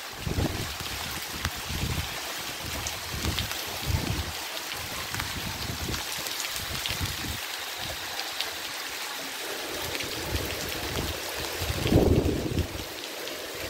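Heavy rain falling with a steady hiss, while gusts of wind buffet the microphone with low rumbles that come and go, the strongest about twelve seconds in.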